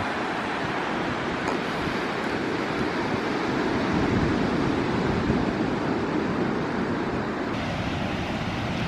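Ocean surf washing onto the beach, mixed with wind buffeting the microphone: a steady rushing that swells a little about four seconds in.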